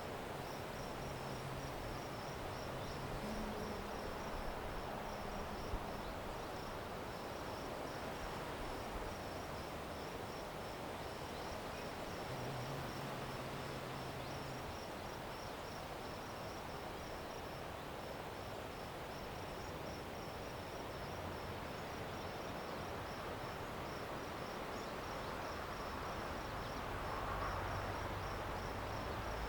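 A cricket chirping in a steady, evenly spaced high-pitched rhythm over a continuous background hiss.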